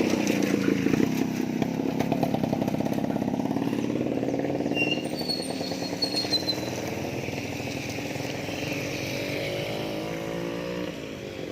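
Small motorcycle engine running on the move, its pitch dipping and rising as the speed changes. A few short, high chirps sound about five seconds in.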